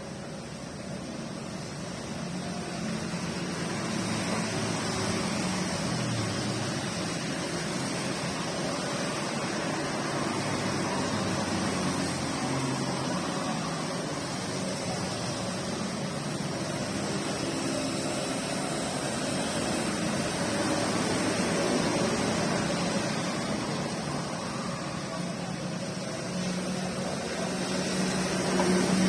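Steady rain falling, a continuous hiss that slowly swells and eases.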